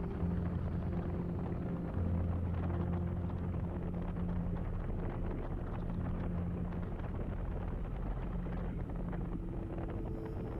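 Kawasaki Vulcan motorcycle engine running steadily under way, with wind rushing over the microphone. The engine note gets louder about two seconds in.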